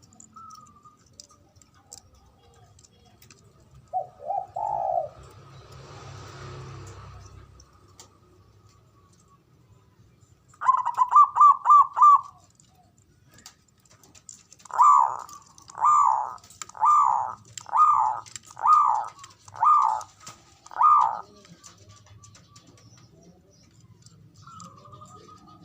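Zebra dove (perkutut) singing: one short low coo, then a quick run of about six clipped notes, then seven longer, evenly paced coos about a second apart, each note rising and falling in pitch.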